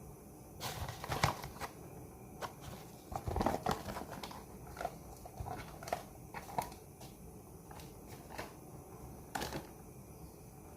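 Kitchen food-preparation handling noises: irregular clicks, knocks and crinkling, typical of handling packaging and adding chicken pieces to a pan.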